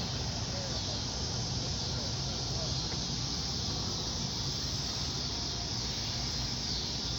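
Steady outdoor background hiss with a low rumble underneath, and a few faint short chirps.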